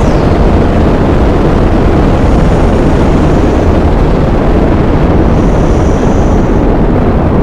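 Rocket engines running just after liftoff: a loud, steady, deep roar without breaks.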